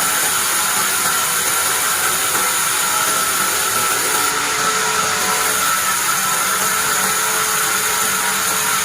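Bandsaw sawmill running and sawing through pine, a steady, even machine noise.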